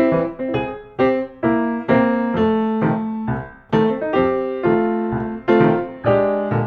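Background piano music: chords struck roughly twice a second, each fading before the next.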